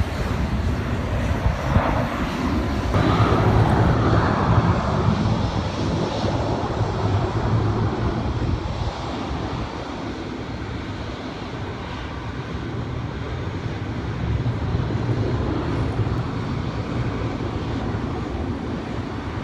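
Jet airliner engines rumbling as a plane passes, loudest a few seconds in and then slowly fading, with wind buffeting the microphone.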